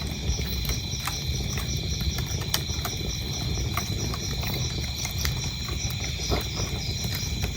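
Wood fire crackling in a fireplace, with a low steady rumble and scattered sharp pops. Crickets chirp throughout in an even, fast pulse of about five chirps a second.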